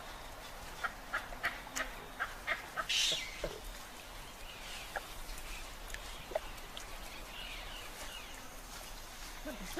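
Wild birds calling: a quick run of about eight short, sharp calls in the first three seconds, then scattered single calls over faint background ambience.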